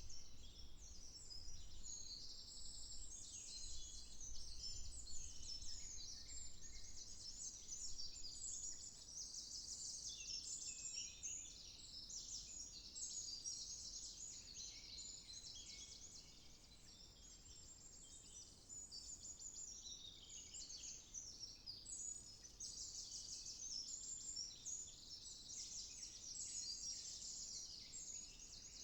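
Several songbirds singing over one another in woodland, a continuous chorus of rapid high trills and chirps, with a faint low rumble underneath.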